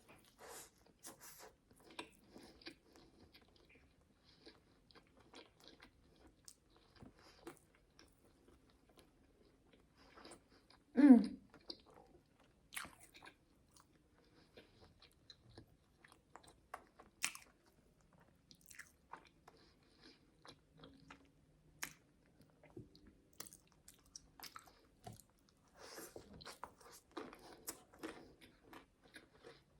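Close-miked chewing and biting of food, with small wet mouth clicks and some crunching. About eleven seconds in there is one brief louder sound that falls in pitch.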